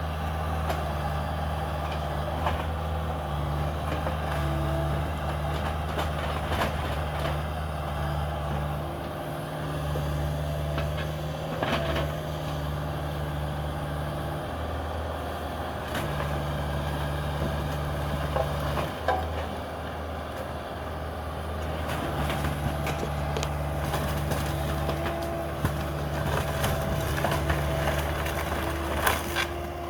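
Cat 305 mini excavator's diesel engine running, its pitch and load dipping and rising as it works. A higher whine comes and goes, and scattered sharp knocks and cracks come more often near the end.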